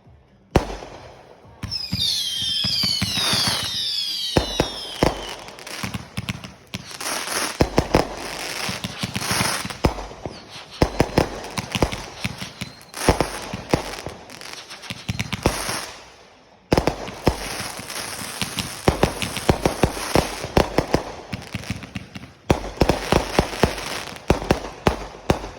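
Fireworks going off: a single bang, then several whistles falling in pitch together, then long runs of rapid crackling pops that come in bursts of a few seconds each with short breaks between them.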